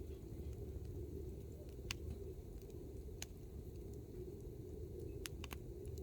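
Hardwood campfire burning with a steady low rumble, and a handful of sharp crackles as the logs pop, spread across the few seconds.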